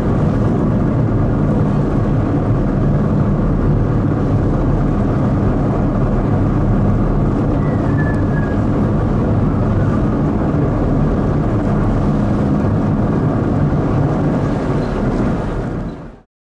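Steady low drone of a river ferry's engines running under way, a hum of several low tones under a noisy rush. It fades out sharply near the end.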